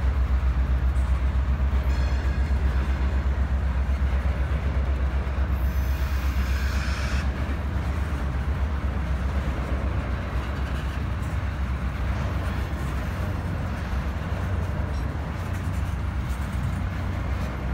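Railroad boxcars rolling past on the track: a steady low rumble of wheels on rail with an even pulsing beat, easing slightly toward the end. A brief high-pitched noise comes about six seconds in.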